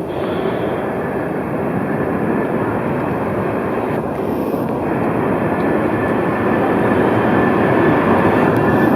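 A tram approaching on its rails, its running rumble growing steadily louder.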